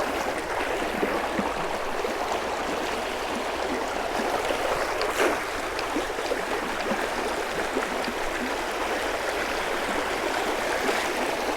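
Creek water running steadily over a shallow riffle, with one short, louder sound about five seconds in.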